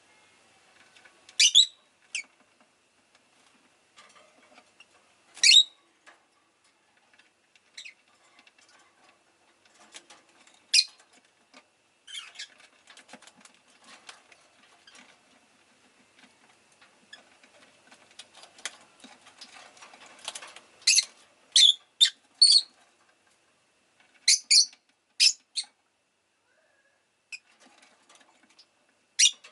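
Rosy-faced lovebird chirping: short, sharp, high-pitched chirps, some single and some in quick runs of two to four, the busiest run a little past the middle. Between the chirps come faint small clicks and rustling.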